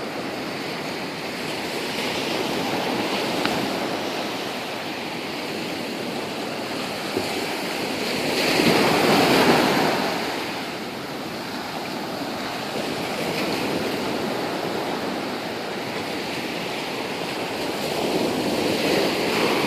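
Ocean waves breaking on the shore: a steady wash of surf with one louder wave about halfway through, and some wind on the microphone.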